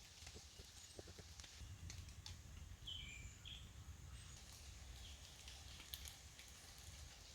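Faint outdoor ambience in light rain: scattered soft drop ticks over a low rumble, with a bird giving a couple of short high chirps about three seconds in.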